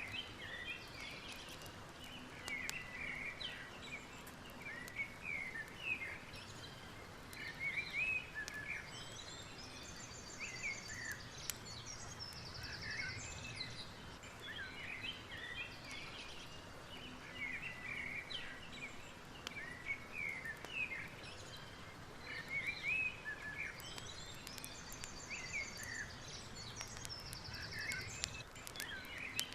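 Many birds chirping and singing in short, overlapping calls, with a couple of fast buzzy trills, over a steady low background rush and faint scattered crackles.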